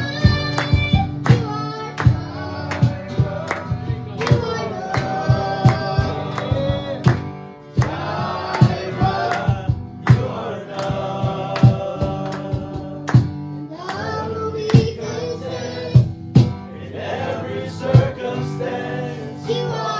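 Live worship band music with voices singing a slow song over sustained chords and regular sharp beats.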